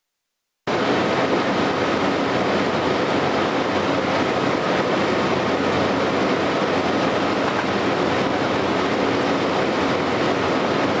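Steady, loud engine and rushing noise with a faint steady hum in it, cutting in abruptly under a second in and running evenly after.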